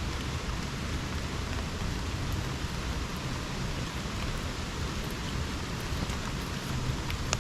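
Steady rain falling in a subtropical rainforest, an even hiss with a few separate drops ticking close by.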